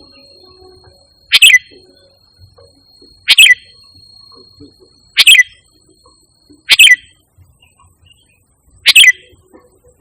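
Sooty-headed bulbul (kutilang) calling: five loud, short, sharp calls, about one every two seconds. A faint steady high tone runs underneath until about seven seconds in.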